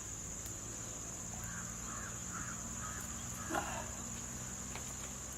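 Crows cawing, three short caws in a row about a second and a half in, over a steady high buzz of insects. A brief sharp knock stands out about three and a half seconds in.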